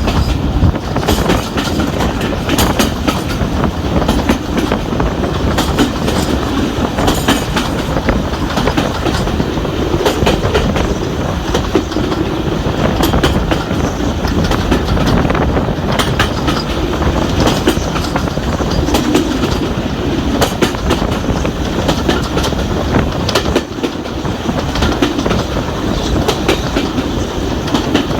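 Train in motion on the track: a steady rumble of wheels on rails with a continual clickety-clack of clicks over the rail joints.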